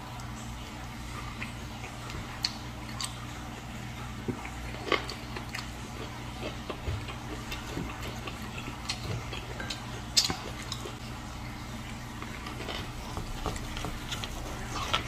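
Close mouth sounds of someone biting into and chewing a fresh rice-paper roll wrapped with lettuce and herbs: scattered wet clicks and crunches, one sharper about ten seconds in, over a steady low hum.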